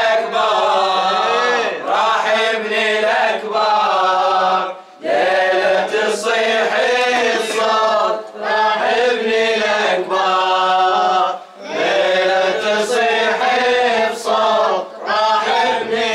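Unaccompanied male chanting of a Shia Muharram latmiya (elegy), sung in long sustained phrases over a steady low hum, with short breaks between phrases.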